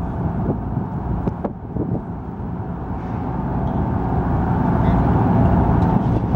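Heavy engine running with a low rumble and a steady hum, growing louder over the last few seconds, with a few faint clicks near the start.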